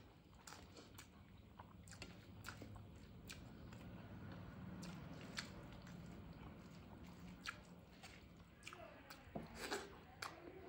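Faint chewing and mouth sounds of a person eating soft rice, dal and potatoes with her fingers, with scattered short clicks and a louder cluster of them near the end.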